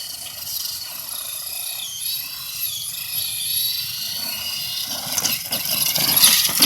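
Radio-controlled monster truck's electric motor whining, its pitch rising and falling as the throttle changes, with rougher tyre noise growing louder near the end.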